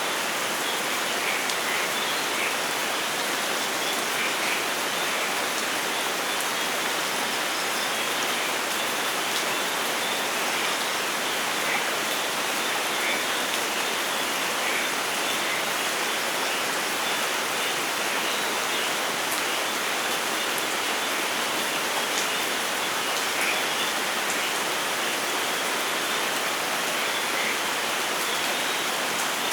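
Steady rain falling, an even hiss with faint scattered drip splashes and no change in strength.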